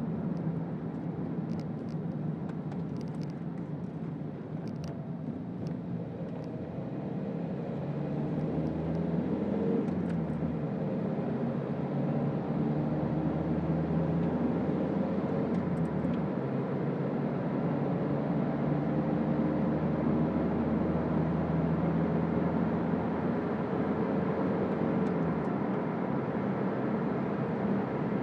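Inside the cabin of a Toyota Auris 1.4 D-4D four-cylinder turbodiesel on the move: a steady mix of engine and road noise. The engine note climbs and gets louder about eight to ten seconds in, then holds steady.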